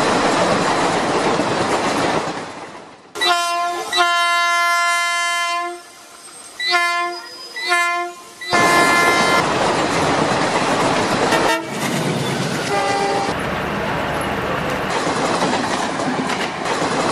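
A train running, with its horn sounding one long blast of about two and a half seconds followed by two short toots, then the steady noise of the train running on.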